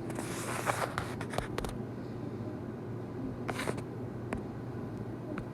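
A steady low hum with rustling handling noise in the first second or two and a few scattered sharp clicks and taps.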